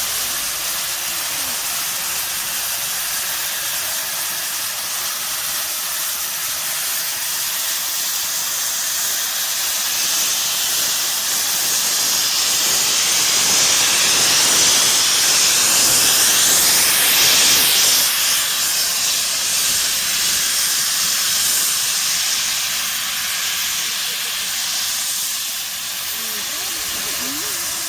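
Steam locomotive C61 2 hissing as it lets off steam: a continuous hiss that swells to its loudest about halfway through, then eases off.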